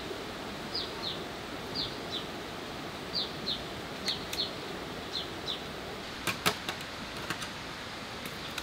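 A bird calls again and again in pairs of short, high, falling notes, about one pair a second, over a steady hiss. About six seconds in come a few sharp knocks, the loudest sounds here, from bamboo being handled, followed by fainter ticks.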